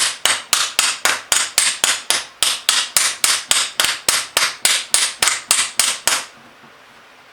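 Rapid, even hammer blows on metal, about three to four a second, stopping abruptly about six seconds in: a frozen rotary table being hammered to break it free so it will turn.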